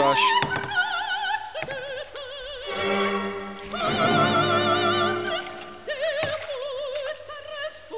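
Opera music: a singer holding long notes with wide vibrato, moving to a new pitch every second or so.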